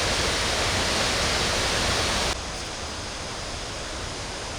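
Steady rushing of a waterfall, a dense hiss of falling water. About two seconds in it drops abruptly to a quieter, duller rush.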